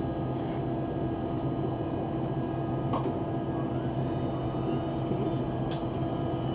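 Steady hum and rumble inside the cabin of a Chinese high-speed train running at speed, with a few constant tones held throughout. Two faint clicks, about three seconds in and near the end.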